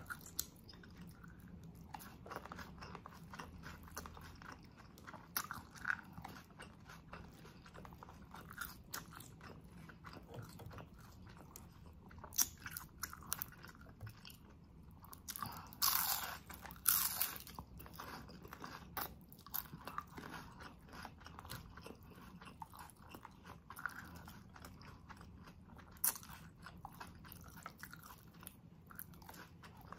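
Close-miked eating: chewing with small wet mouth clicks throughout, and a few louder crunchy bites about halfway through, from a fried lumpia (Filipino spring roll).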